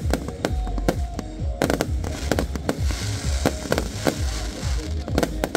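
Fireworks going off in rapid succession: many sharp bangs and deep booms overlapping, with crackling sparkle from about two seconds in.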